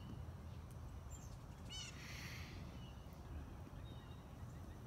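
Faint high chirps of small birds, with a short burst of rapid high chirping about two seconds in, over a steady low background rumble.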